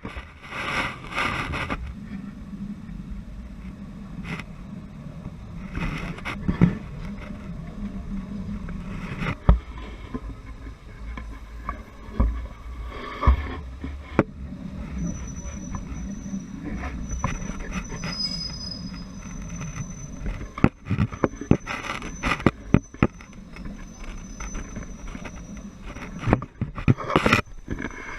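Train running on the Thailand–Burma 'Death Railway', heard from on board: a steady low rumble with irregular knocks and clanks from the wheels and carriage, and a thin high tone joining about halfway through.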